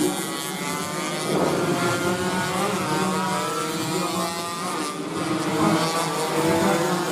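Several two-stroke 125cc underbone racing motorcycles running at high revs together, their engine notes overlapping and rising and falling in pitch as they race.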